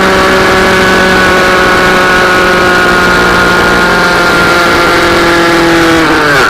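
Mini-bike engine running at high revs with a steady, loud note that sags slightly in pitch, then falls sharply and cuts off suddenly near the end: the engine seizing.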